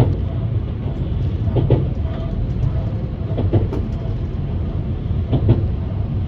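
Diesel railcar running, heard from inside the car: a steady low rumble with paired knocks of wheels crossing rail joints about every two seconds.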